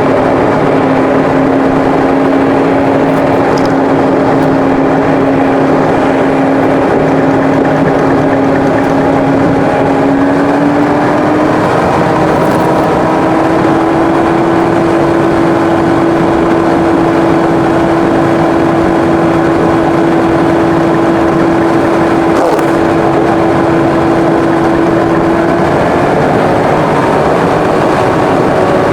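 Car engine running at a steady cruising note over constant tyre and road noise; the engine note rises a step about a third of the way in and edges up again near the end as the car gains speed.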